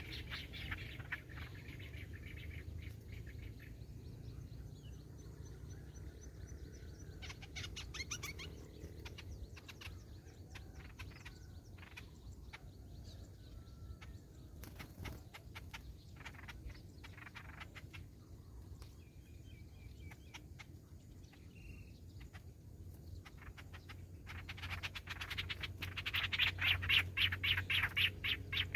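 Small birds chirping in scattered short calls, then a loud, fast run of repeated calls near the end.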